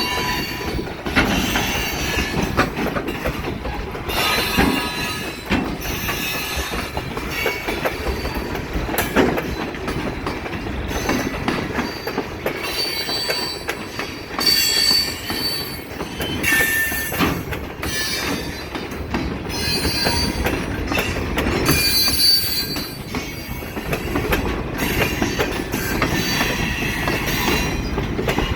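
Canadian Pacific railcars rolling past with a steady rumble, wheels clacking over rail joints, and short high-pitched wheel squeals now and then.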